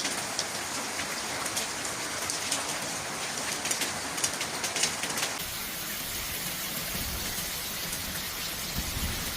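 Heavy rain falling, with dense patter and splashing on hard surfaces. About five seconds in the sound shifts to a duller rush with more low rumble.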